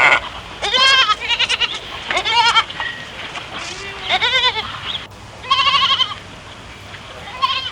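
Farm animals bleating: about six short, quavering bleats in a row, some higher and some lower, as from more than one animal.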